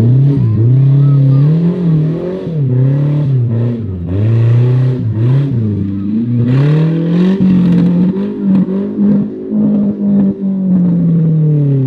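Off-road 4x4's engine revving hard, its pitch swinging up and down again and again as the throttle is worked; near the end the revs drop and the sound fades away.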